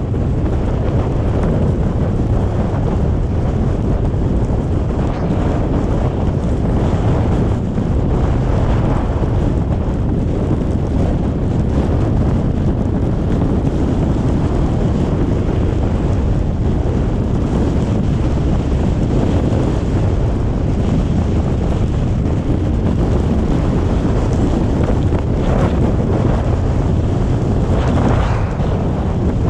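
Car driving through a snowstorm: a steady low rumble of road, tyre and engine noise, mixed with wind noise.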